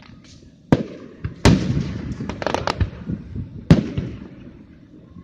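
Aerial fireworks bursting: a sharp bang under a second in, a louder one at about a second and a half followed by a run of smaller crackling pops, and another loud bang past the middle.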